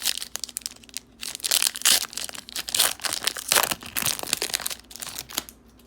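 A trading card pack's wrapper being torn open and crinkled by hand: a dense run of irregular crackles that thins out near the end.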